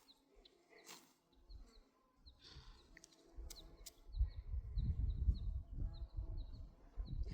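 A small bird chirping over and over in short, high notes, with a few sharp clicks. About halfway through, a louder low rumble comes in and becomes the loudest sound.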